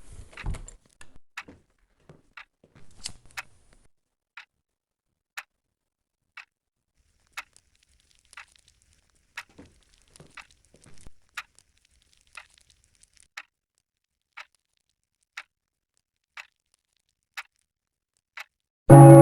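A clock ticking steadily, about one tick a second, with a few soft knocks in the first few seconds.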